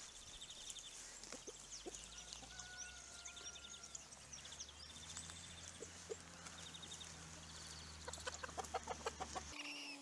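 Chickens clucking, ending in a quick run of short clucks near the end, over many faint high chirps. A low steady hum under them cuts off abruptly near the end.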